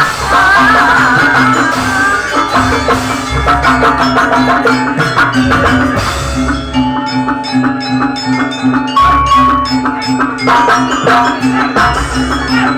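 Live traditional ensemble music with drums and mallet percussion: a low note repeats steadily under struck, ringing melodic tones and drum strokes.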